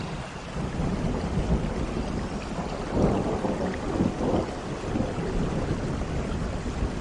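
Rain falling on rainforest foliage, with a low rumble of thunder that builds about half a second in and is loudest around the middle.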